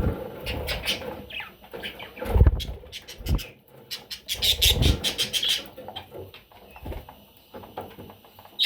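Baby budgerigar chicks cheeping, with scratchy rustling and several low bumps; the chirping is loudest for about a second around the middle.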